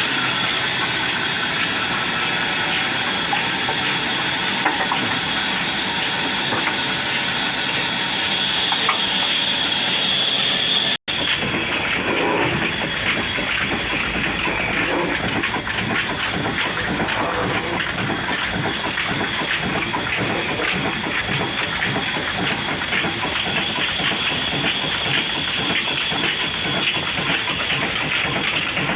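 Steady rush of gushing water, like a pump's outlet pouring. It cuts off abruptly about eleven seconds in and carries on with a rougher, more broken texture.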